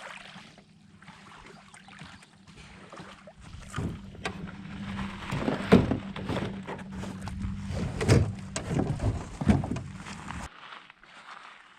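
Canoe on the water: paddling splashes and knocks over steady water and wind noise, with several louder knocks in the second half.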